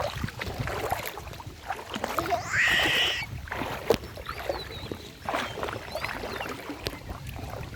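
River water flowing and splashing, with irregular small splashes and knocks, and a louder burst about two and a half seconds in.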